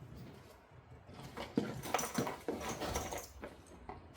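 A dog vocalizing in a run of short sounds from about a second in.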